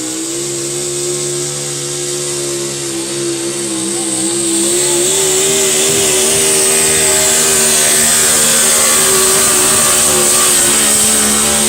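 A pulling tractor's engine running hard under load during a tractor pull, its pitch held nearly steady while it grows louder about four seconds in, with a high steady whistle above the engine.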